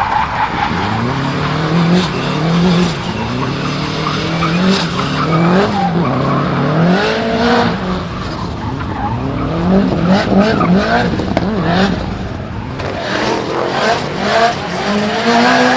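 Turbocharged flat-four Subaru EJ20 stroker engine in a drifting Impreza WRX GC8, revving up and falling back over and over under throttle, with tyres squealing. A run of sharp cracks comes about ten seconds in.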